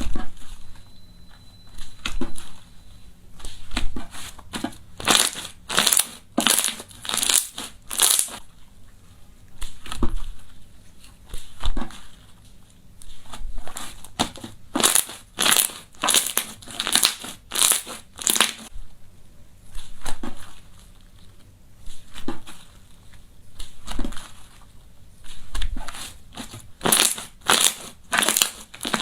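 Crunchy slime being pressed and squeezed, giving repeated crisp crackles at about two a second, coming in clusters with short pauses between.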